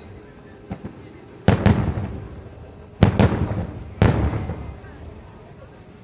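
Firework shells bursting overhead: sharp bangs about a second and a half, three and four seconds in, each trailing off in a long rumbling echo, with a smaller pop before the first.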